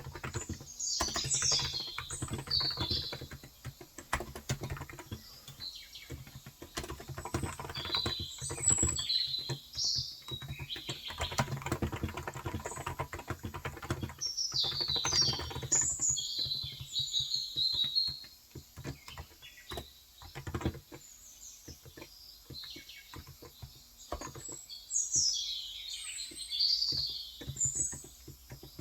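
Typing on a Cox Endeavour electro-capacitive (Topre-style) tenkeyless keyboard with light 35 g keys: fast runs of soft keystrokes that thin out to scattered presses after about 18 seconds. Small birds chirp in short high bursts over it, several times.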